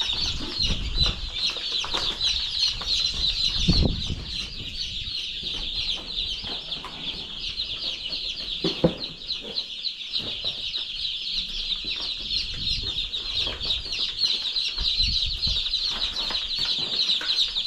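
A flock of chicks peeping continuously, many high, short chirps overlapping into a dense chorus. A few dull knocks sound underneath, around four and nine seconds in.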